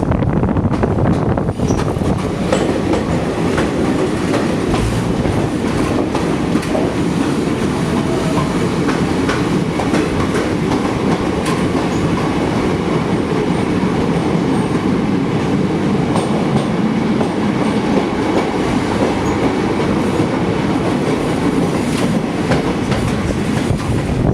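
Passenger train running steadily, a continuous rumble with wheels clattering on the rails.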